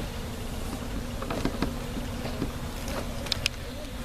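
A mass of honeybees buzzing in a steady hum around an opened hive, with a few light knocks and clicks, two sharper ones near the end.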